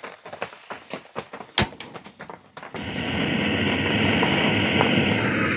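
Small handling clicks and one sharp click, then about halfway through a Jetboil backpacking stove's gas burner lights with a sudden start and runs with a steady, even rushing hiss.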